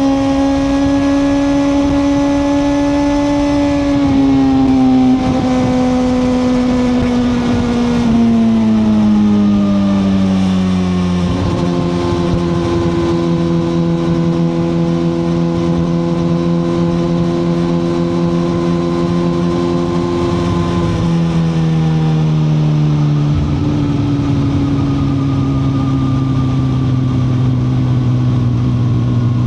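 2021 Suzuki GSX-R1000R's inline-four engine running under way, heard from on the bike. Its pitch falls in several stages as the revs come down, holding steady between drops, over a constant rush of wind and road noise.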